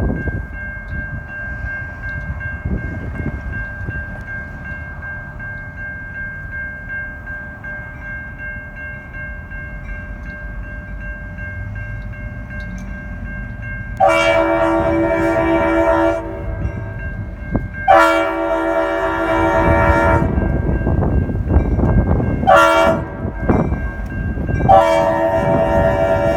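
A five-chime Leslie RS-5T air horn on a lead diesel locomotive sounds the grade-crossing signal: two long blasts, a short one, then a final long blast that starts near the end. Beneath it the rumble of the approaching EMD diesel locomotives grows louder.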